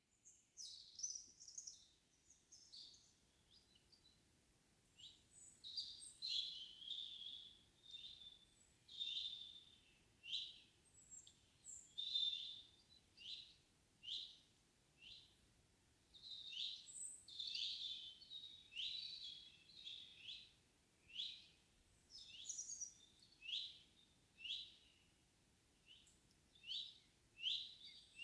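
Several small songbirds singing and calling in a still forest in the evening: short high chirps and brief song phrases, a few a second at times, over a very quiet background without wind.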